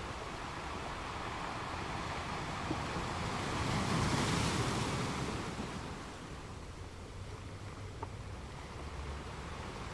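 Ocean surf: a steady wash of waves that swells as a wave breaks about four seconds in, then dies back down.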